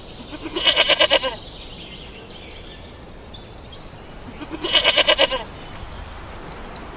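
A ram (male sheep) bleating twice, each a quavering call a second or less long; the calls are about four seconds apart. Faint bird chirps can be heard in the background.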